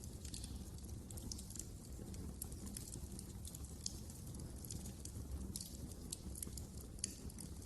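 Wood fire crackling in a fireplace: frequent, irregular sharp snaps and pops over a steady low rumble of the burning logs, with a few louder pops here and there.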